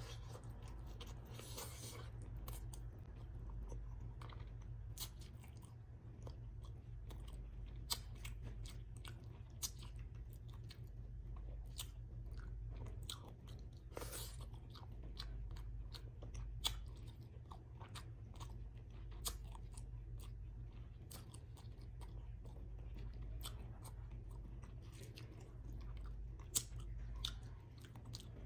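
Close-up chewing and mouth smacks of a person eating salmon paksiw and rice by hand, with many short wet clicks scattered throughout. A steady low hum runs underneath.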